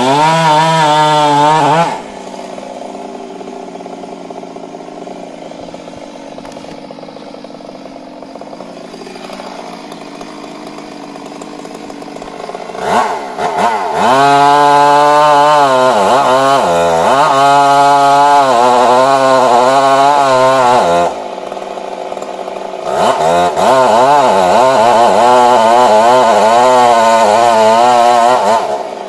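Stihl MS 382 two-stroke chainsaw switching between idle and full throttle: a short burst of high revs, about ten seconds of idling, then two long full-throttle runs as it cuts wood, their pitch dipping and recovering, with a brief idle between them and a drop back to idle at the end.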